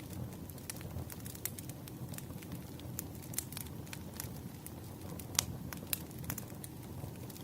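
Firewood burning: a steady low rumble of flames with irregular sharp crackles and pops, the loudest about five and a half seconds in.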